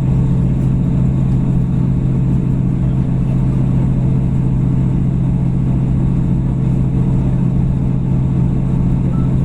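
Steady low drone of a two-carriage diesel passenger train running along the line, heard from inside the carriage.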